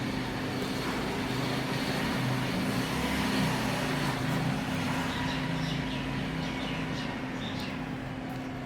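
Steady hum holding one constant tone, over a bed of outdoor background noise, with a few faint high chirps in the second half.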